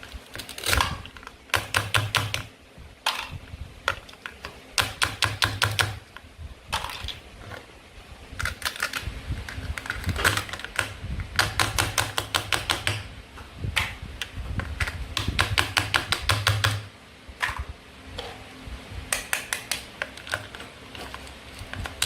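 Plastic toy fruit and vegetables being cut apart with a toy knife: repeated runs of rapid crackling clicks, each lasting about a second, with short pauses between.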